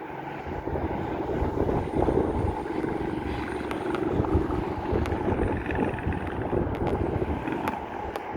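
Airbus A320's twin turbofan engines heard during its landing: a steady rushing jet noise that swells about half a second in and stays loud, with wind buffeting the microphone.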